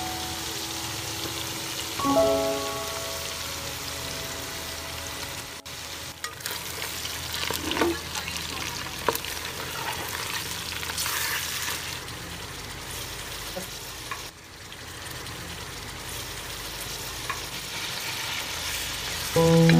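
Beef pieces frying in hot oil in a pot, sizzling steadily, with a wooden spoon stirring and now and then knocking and scraping against the pot.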